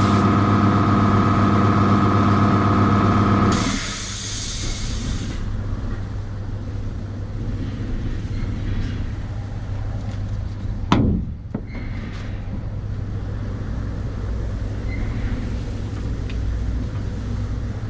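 Air compressor motor running, then cutting out about three and a half seconds in with a short hiss of air released from its unloader valve. A low steady hum carries on after, with a brief falling whoosh about eleven seconds in.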